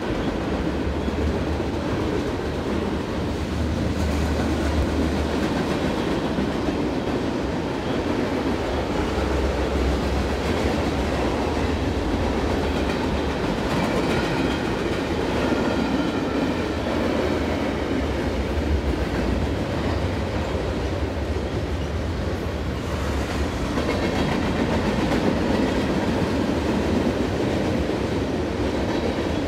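Freight train of tank cars rolling past, a steady rumble and clatter of its wheels on the rails.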